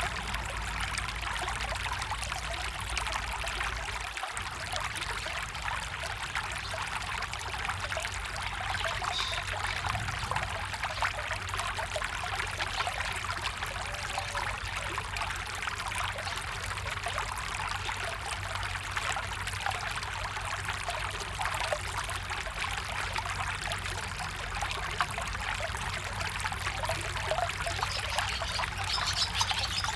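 A small stream trickling and splashing steadily over stones.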